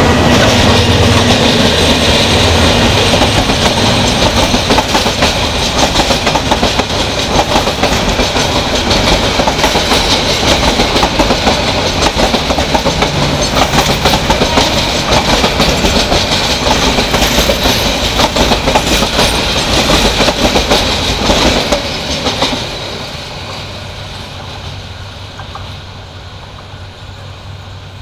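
Intercity passenger train's coaches passing close by at speed, wheels clattering over the rail joints. The clatter stops abruptly about 22 seconds in as the last coach goes by, and the rumble fades away into the distance.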